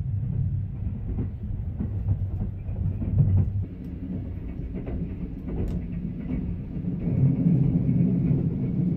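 Sunrise Izumo 285-series electric sleeper train running, heard from inside the carriage: a steady low rumble with scattered clicks of the wheels on the track, growing louder about seven seconds in.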